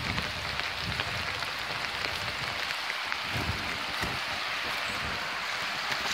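Steady rain falling on an umbrella held close overhead, with a few low, irregular thumps from footsteps on a wet, leaf-covered path.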